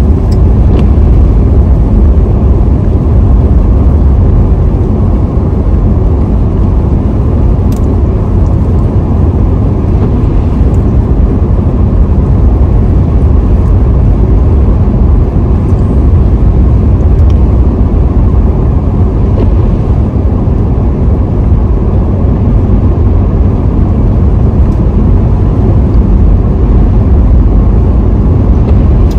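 Steady, loud low rumble of a car driving along the road: road and wind noise.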